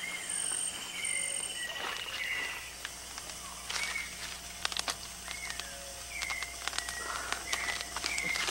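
Rainforest ambience: a bird gives short, often falling whistled calls about once a second, over a high insect trill in the first couple of seconds and scattered faint clicks.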